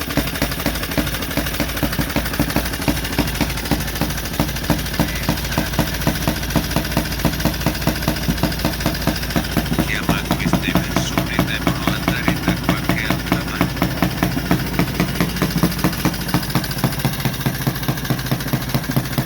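1928 Benelli 175 Turismo's single-cylinder 175 cc engine idling just after a cold start, with a slow, even beat of firing strokes.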